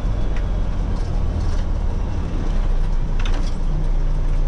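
Semi truck's diesel engine running steadily at low speed, heard from inside the cab as it circles around, with a short high squeak about three seconds in.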